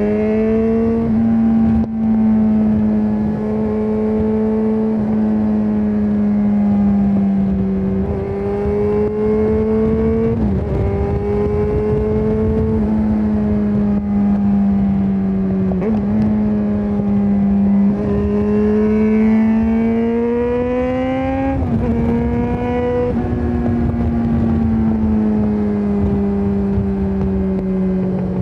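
Yamaha XJ6N's 600 cc inline-four running through a Shark Street GP full aftermarket exhaust, heard from the rider's seat under way. The engine note rises and falls with the throttle, with several sudden pitch jumps and brief breaks where gears are changed.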